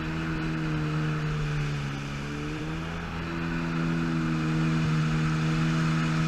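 Yamaha GP800 jet ski's two-stroke twin engine running at low speed, still warming up. Its pitch sags slightly, then steps up about three seconds in and holds steady.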